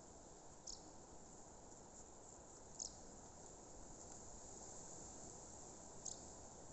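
Faint outdoor nature ambience: a low steady hiss with three short, high chirps spaced a few seconds apart.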